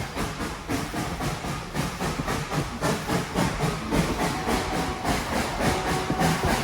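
Narrow-gauge steam locomotive No. 190, a 2-8-2, working under steam: a steady hiss with a quick, even rhythm of exhaust chuffs.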